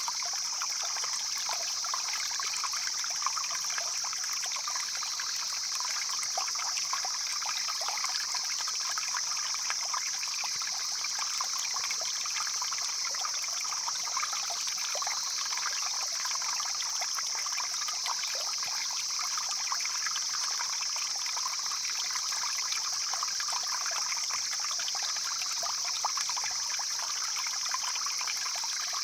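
Mountain stream flowing and splashing, a steady rushing babble of water with a constant high hiss over it.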